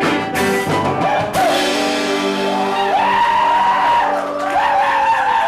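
Live band playing, with long held high notes that bend in pitch, and a crash that rings on from about a second in.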